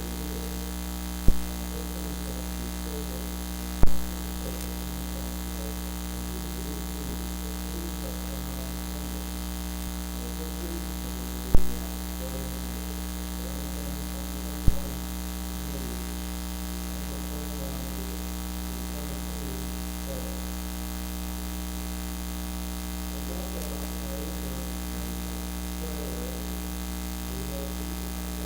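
Steady electrical mains hum with a buzz of several steady tones, the kind of fault that makes a recording's sound bad. Four sharp pops cut through it, two in the first few seconds and two more around the middle.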